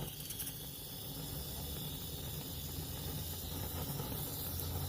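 Steady sizzling hiss from a barbecue over a fire pit, with a low rumble underneath.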